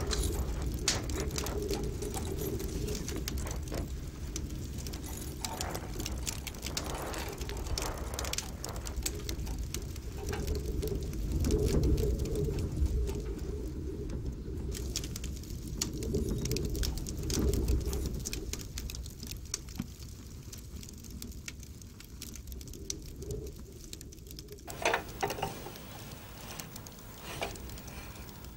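Low cooing calls, repeated every second or two, with scattered small clicks.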